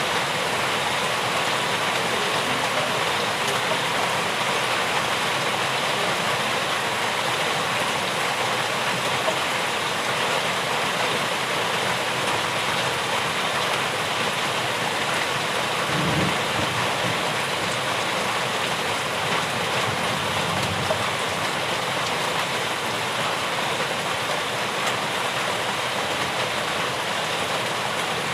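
Steady rain falling, an even continuous hiss. A brief low rumble comes in a little past halfway.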